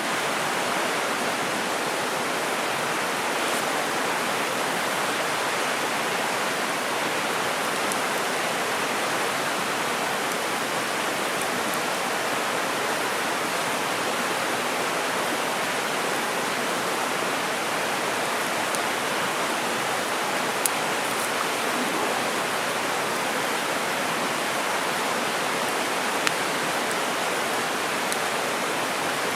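Mountain stream rushing in a steady, unbroken flow of water. Two faint ticks stand out briefly, one in the middle and one near the end.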